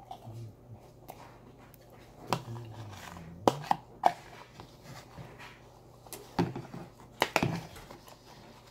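Close-up eating sounds: a vanilla cookie being chewed, with scattered sharp clicks and knocks from a spoon and bowl being handled, the loudest ones about halfway through and again near the end.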